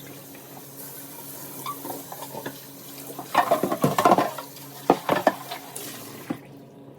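Dishes and kitchenware being handled: clusters of clattering knocks about three and a half and five seconds in, over a steady hiss that stops about six seconds in.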